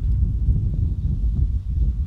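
Wind buffeting the microphone at the seaside: a loud, uneven low rumble in gusts.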